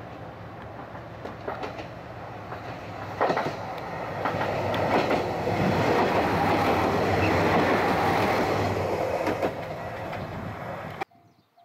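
Express train passing close by at speed, its wheels clattering over the rail joints. The noise builds, peaks as the cars rush past, then eases before cutting off.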